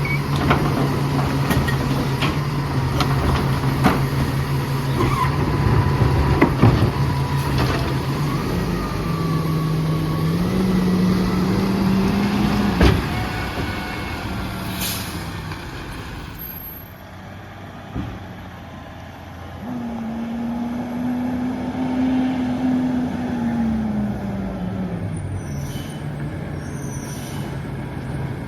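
Freightliner M2 garbage truck's diesel engine running steadily, revving up twice and settling back to idle. Knocks and clanks come from the truck, with a sharp bang about 13 seconds in and a short air hiss just after.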